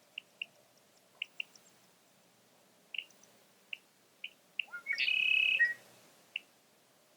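Songbirds outdoors: short single and paired chirps come every second or so. About two-thirds of the way in, one bird sings a loud song phrase about a second long.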